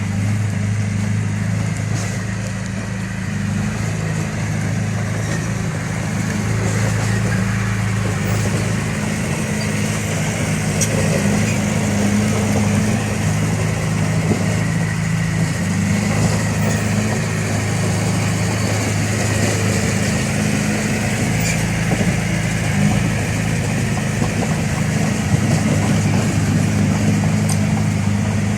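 Diesel engine of heavy equipment running steadily with a deep, even hum, and a few faint clicks here and there.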